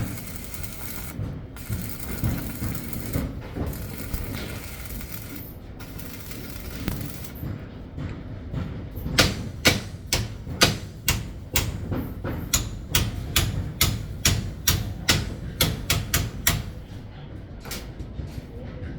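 A hiss that comes and goes over a steady low rumble, then, from about nine seconds in, a run of sharp knocks at roughly two or three a second for about eight seconds, typical of hand tools striking on a construction site.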